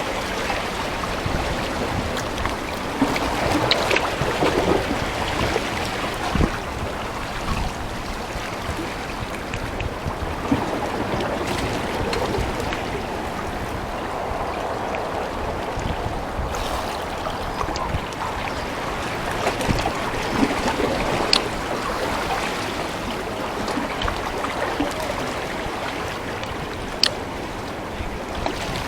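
Steady wash of moving water and wind, with a few small knocks and clicks here and there.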